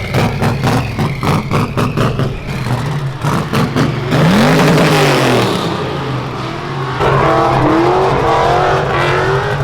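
A car engine revving hard at a drift event: first a rapid stutter of pulses, then revs sweeping up and down.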